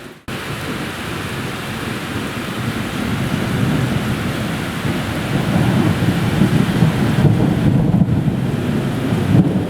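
Heavy thunderstorm rain falling steadily, with a long low roll of thunder that builds from about three seconds in and keeps rumbling to the end. The sound drops out for a split second at the very start.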